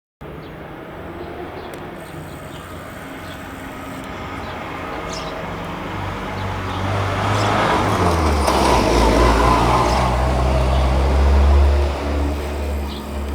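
Jet airliner engines flying past, a broad rumble that grows steadily louder over the first eight seconds as the plane approaches and stays loud, with a brief dip near the end.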